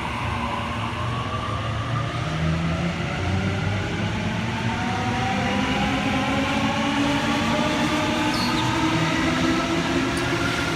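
Waratah electric train pulling away from the platform. Its traction motors give a layered whine that rises steadily in pitch as it gathers speed, over the rumble of the wheels.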